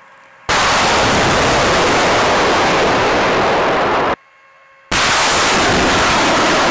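Live-fire launch blast from rocket artillery: loud, even roaring noise that cuts in sharply, breaks off for under a second about four seconds in, then starts again just as abruptly.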